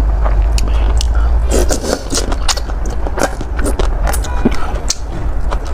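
Close-miked chewing and slurping of noodles: a dense, irregular run of wet mouth clicks over a steady low rumble.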